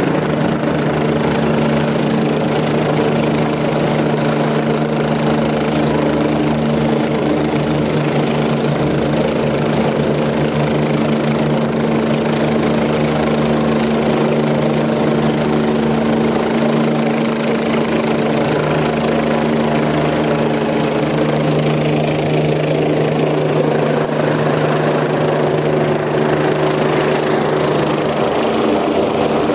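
Air ambulance helicopter running steadily close by: a loud, even whine of turbine engine and rotor with a steady low hum.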